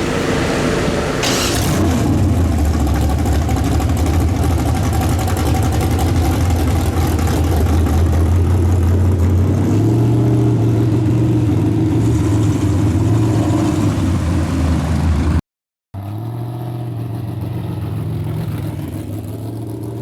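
Car engine running loud with a deep, steady note, its pitch rising a little about ten seconds in. It cuts off suddenly near the end and a quieter engine sound follows.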